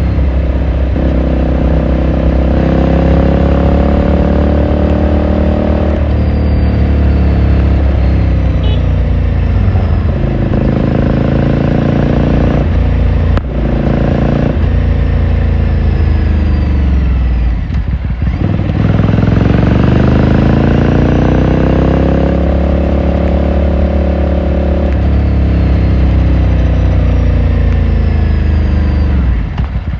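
Ducati Scrambler Sixty2's air-cooled 399 cc L-twin under way. The revs rise and break off several times as it shifts up, fall away and dip about halfway through as it slows, then climb again as it pulls away once more.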